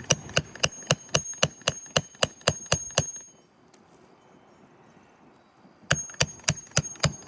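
Hammer striking a metal roof snake in quick, even blows, about four a second, each with a bright metallic ring, driving it under shingles. About a dozen strikes, a pause of nearly three seconds, then five more.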